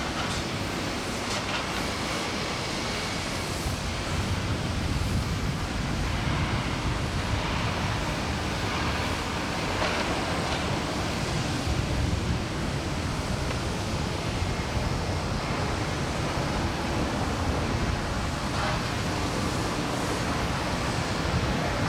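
Steady rushing outdoor noise with a low rumble, with a few faint knocks, one about halfway through.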